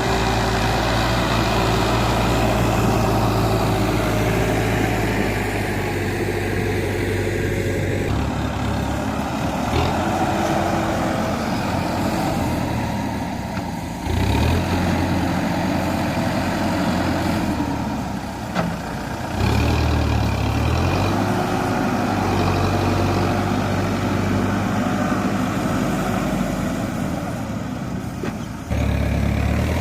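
Farmtrac tractor's diesel engine running steadily, its note changing abruptly several times.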